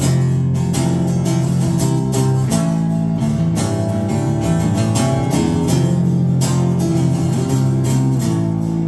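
Live band playing an instrumental passage between sung verses, led by strummed guitar with bass underneath.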